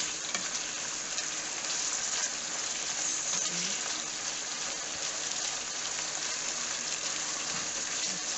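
Diced pork, onion and chili sizzling steadily in a non-stick pot while being stirred with a wooden spatula.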